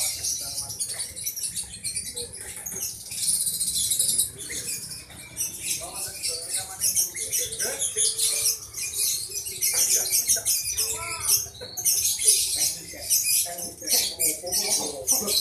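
Lovebirds chattering: a dense, continuous stream of short high-pitched chirps and squeaks from many birds at once.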